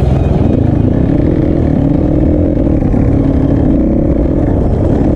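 Dirt bike engine running while riding an off-road trail, its note wavering slightly with the throttle over a heavy low rumble.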